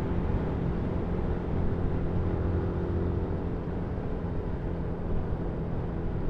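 Yamaha MT-125's single-cylinder four-stroke engine running at a steady pitch while the motorcycle rides along.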